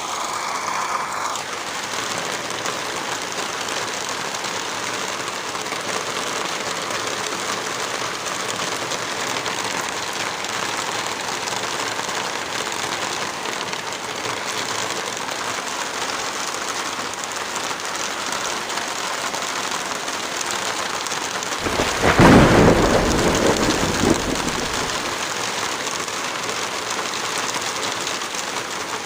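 Heavy rain falling steadily, with a single thunderclap about three-quarters of the way through that rumbles on for two or three seconds before fading back into the rain.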